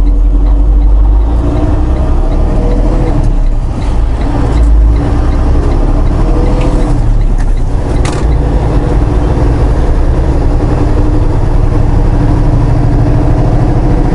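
Semi-truck diesel engine pulling away under a heavy load, heard from inside the cab. The engine note climbs and drops back several times as the truck works up through the gears.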